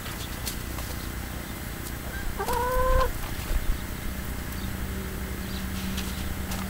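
A single drawn-out bird call about two and a half seconds in, a clear pitched note that rises slightly at its start, over faint scattered clicks.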